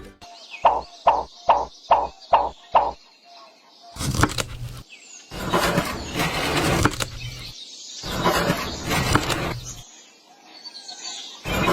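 Six quick taps about two a second, then several stretches of rough scraping or rubbing, each a second or two long, from hand work on a miniature brick-and-cement build.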